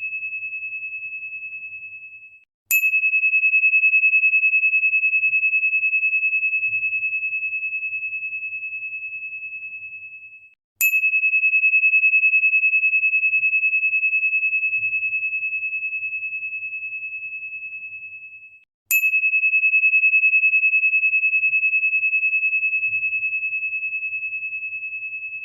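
A single high, pure ringing tone, struck three times about eight seconds apart; each strike opens with a short click and the tone rings down slowly with a gentle pulsing, the last one still ringing near the end.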